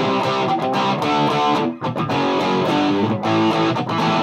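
Gibson Les Paul played through a Mesa Boogie Dual Rectifier tube amp on channel 2 in Raw mode, Spongy power setting and tube rectification, heard through a Marshall 1960A 4x12 cabinet. Chords and riffs with some distortion, broken by a couple of brief stops.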